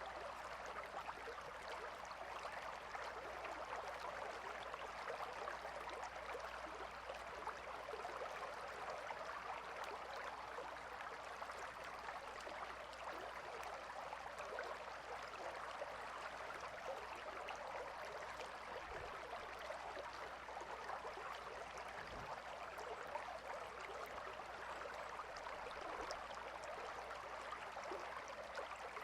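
A calm river flowing, a steady rushing and trickling of water over stones.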